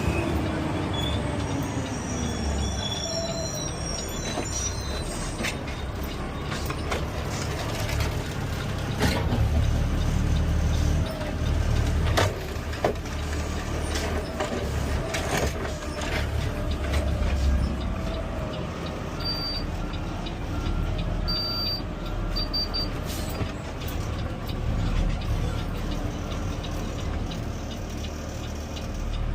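Peterbilt 520 CNG automated side-loader garbage truck heard from the cab: the engine runs with a steady low rumble while clunks and knocks come from the truck at work. A short run of quick beeps sounds about two-thirds of the way through.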